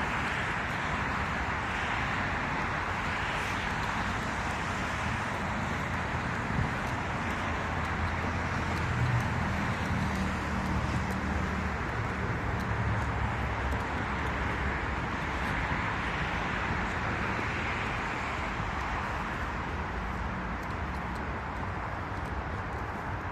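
Street traffic ambience: a steady wash of road noise, with a motor vehicle's engine passing by about a third of the way through.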